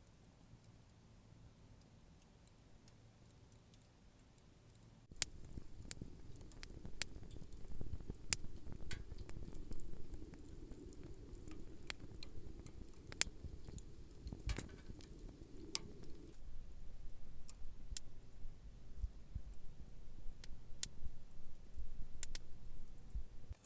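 Wood campfire crackling: irregular sharp pops over a low rumble that starts suddenly about five seconds in, after a quieter opening.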